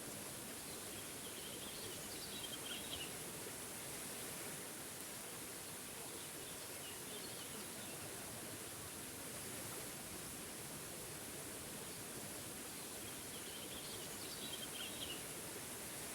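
A small forest waterfall rushing steadily as an even hiss. Over it a songbird sings a short twittering phrase three times: about two seconds in, around seven seconds, and again near the end.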